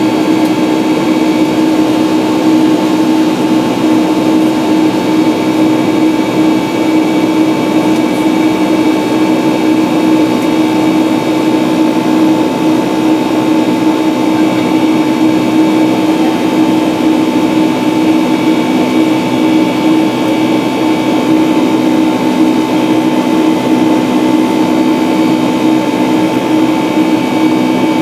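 Airliner's jet engines heard from inside the cabin in flight: a steady loud rush of engine and air noise with a constant hum and whine running through it, unchanging throughout.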